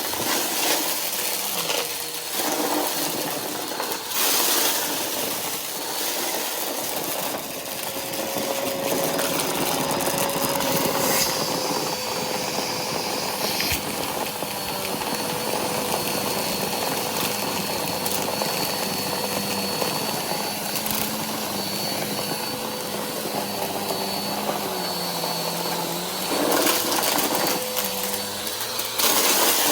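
Vacuum cleaner running steadily with a whine while sucking up confetti and crunchy debris that crackles and rattles through it, in louder surges now and then; its dust bin is full to overflowing.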